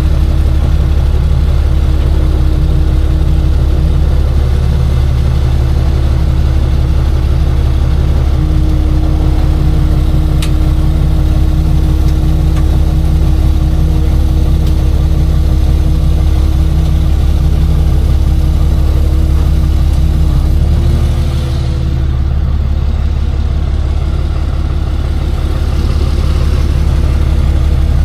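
Tow truck engine running at a steady idle, a low hum with a thin steady tone over it. About 21 seconds in the tone steps up slightly and the level dips a little.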